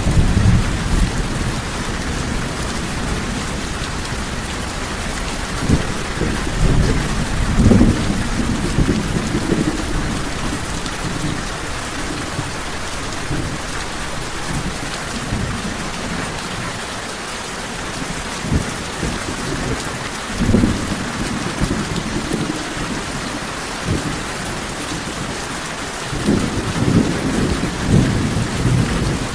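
Steady heavy rain falling, with low rolls of thunder swelling up several times: a couple near the start, a long one in the middle and one near the end.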